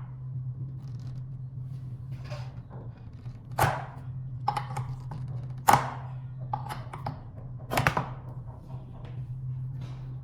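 Knocks and clicks of hand work on an electric scooter's folding-mechanism bolt as it is pulled out, with three louder knocks among lighter clicks. A steady low hum runs underneath.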